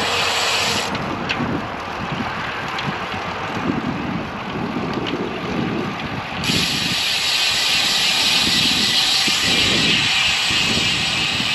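Gusty wind buffeting a microphone on a moving bicycle: a loud rushing hiss with an uneven low flutter, getting louder and brighter about six and a half seconds in.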